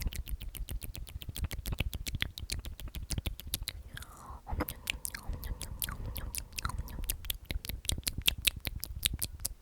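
Close-miked wet mouth sounds: a rapid run of lip and tongue clicks and smacks, several a second, like a wordless 'omnomnom' eating noise.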